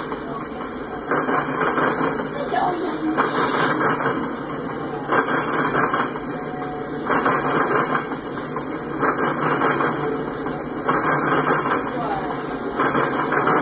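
Freight cars rolling past, their steel wheels clattering over the track joints in a regular beat: a loud burst of clacks about every two seconds as each car's pair of trucks goes by, with a steady rumble of the train between.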